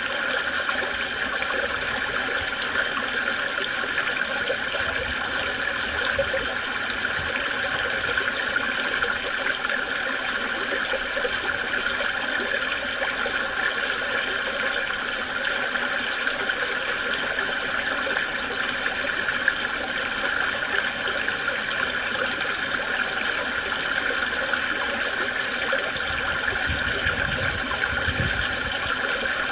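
Creek water babbling and rushing steadily over rocks, with a low rumble near the end.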